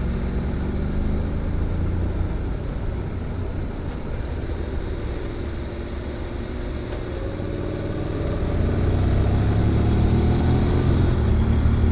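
Honda NC750X's parallel-twin engine breathing through a GPR aftermarket muffler, accelerating under load: the exhaust note rises in pitch and grows louder about eight seconds in as the muffler kicks in.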